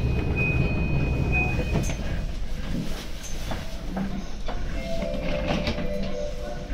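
E235 series electric commuter train standing at a station platform: a steady high beep for about the first two seconds, then a low rumble with scattered clicks.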